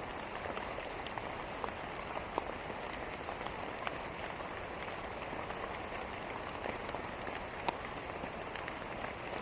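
Steady rain falling, an even hiss with scattered single drops ticking sharply on a surface.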